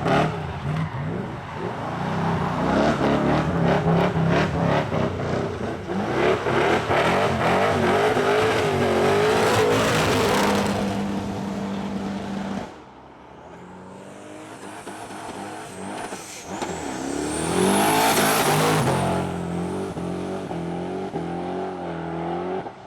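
A performance car engine revving hard at high rpm for a burnout. About thirteen seconds in the level drops sharply, then a high whistle rises and falls as the engine revs hard again. It eases to a lower, steadier run near the end.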